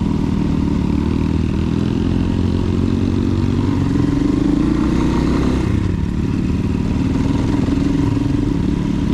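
Enduro motorcycle engine running under changing throttle, its pitch shifting up and down, with a drop at about six seconds.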